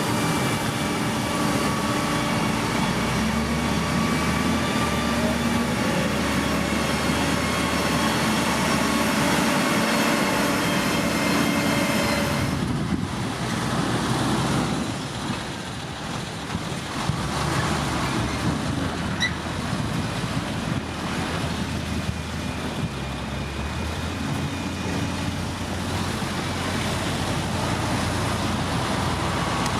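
Heavy diesel construction machinery running steadily, an engine drone with a steady whine above it. About twelve seconds in the sound changes abruptly and turns duller and a little quieter.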